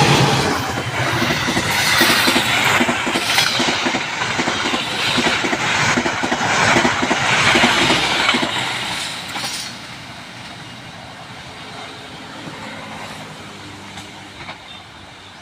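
Train passing at speed over a station's rail switch, its wheels clattering rapidly over the points and rail joints; the clatter fades to a quieter rumble about ten seconds in as the train goes by.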